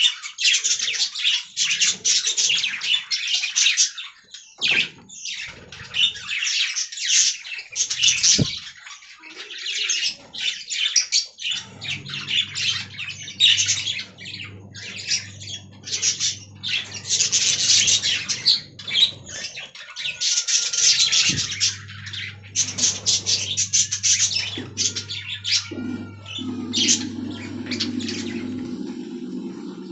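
Budgerigars chattering and warbling in rapid, continuous bursts of high chirps and squawks. A low steady hum runs underneath from about a third of the way in.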